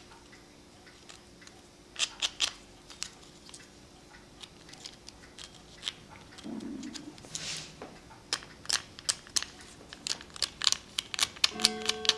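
Sharp clicks and scraping from hand work on cuckoo clock bellows parts being cleaned of old paper and glue. The clicks come thick and fast in the second half.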